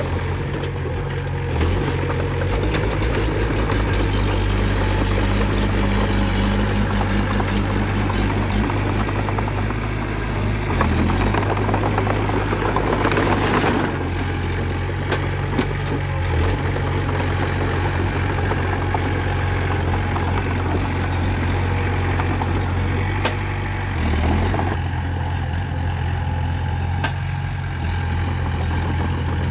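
Heavy earthmoving equipment's diesel engine running steadily and low, its note shifting a few times as it works.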